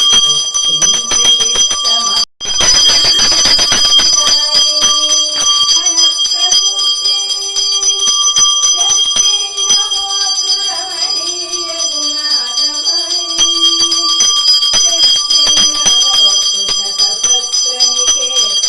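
Pooja hand bell rung continuously, a steady ringing, over a devotional song being sung. The sound cuts out for a moment a little over two seconds in.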